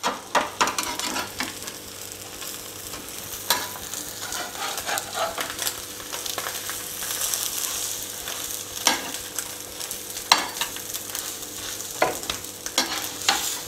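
Egg crepe sizzling steadily in oil on a flat pan, with a handful of sharp taps and scrapes from a metal spatula against the pan as the filled crepe is folded and rolled.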